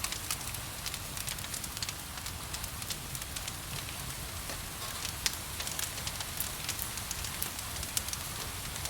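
Wood fire crackling, with irregular sharp pops and snaps over a steady hiss of gentle rain.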